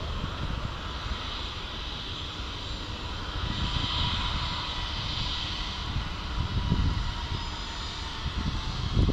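Jet engines of a Boeing 737-800 with CFM56-7B turbofans, a steady rushing whine that swells about four seconds in and then eases off, over a gusty low rumble.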